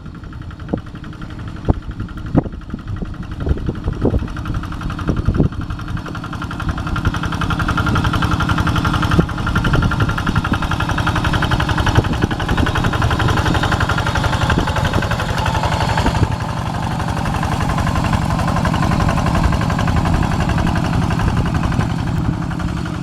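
Kubota RD85 two-wheel tractor's single-cylinder diesel engine running, with a few sharp knocks in the first five seconds, then louder and steady from about seven seconds in.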